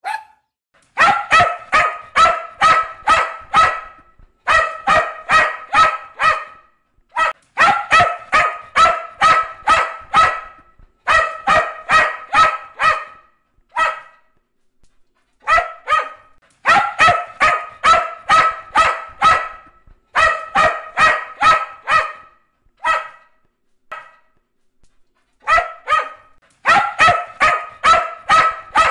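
Cocker spaniel barking in rapid runs, about three barks a second, in groups of several with short pauses between them.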